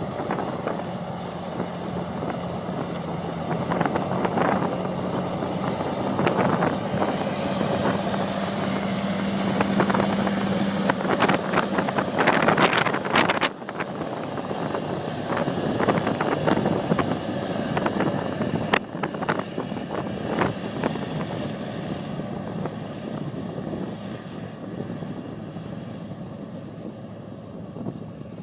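Tractor engine pulling hard up a steep hill, a steady drone that creeps up in pitch, with a burst of clatter and a sudden drop about halfway through, after which it runs on and slowly fades.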